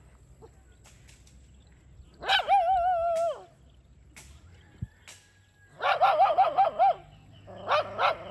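A dog barking: a drawn-out wavering yowl about two seconds in, then rapid strings of high yapping barks in two bursts near the end.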